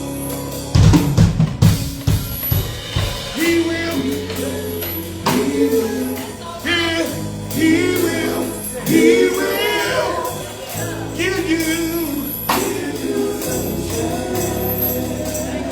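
Live gospel music: a vocal group singing over drums, bass and tambourine, with heavy low drum hits about a second in.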